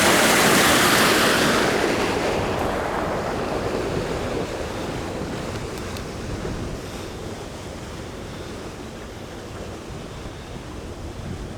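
Floodwater runoff rushing over rocks, loudest for the first couple of seconds and then fading away. Wind buffets the microphone throughout.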